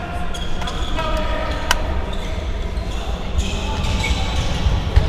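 Football match sound: players' shouts with a sharp ball kick about a second and a half in, over a steady low rumble.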